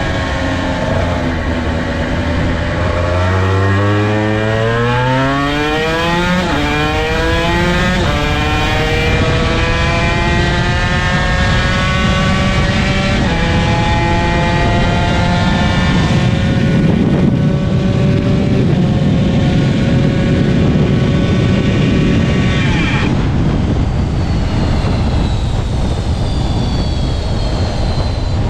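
Honda NSR250R two-stroke V-twin racing motorcycle engine accelerating hard up through the gears, its pitch climbing and dropping at each shift. About 23 seconds in the engine note cuts off suddenly as the engine seizes, leaving only a rushing noise.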